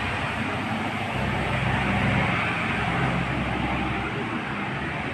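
A motor vehicle passing, its low rumble rising about a second in and dropping away about four seconds in, over a steady hiss of rain.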